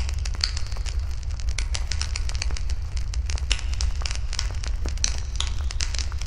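Wood campfire crackling, with many irregular sharp pops and snaps of burning wood over a steady low rumble.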